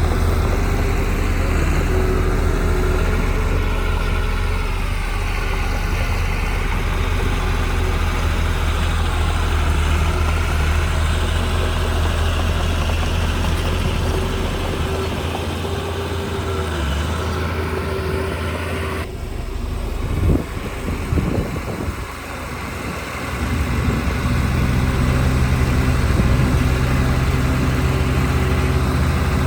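Diesel engine of heavy earthmoving equipment running steadily, its pitch shifting with load. About 19 s in the sound changes abruptly, with a few clunks and knocks over the next few seconds before the engine runs on again.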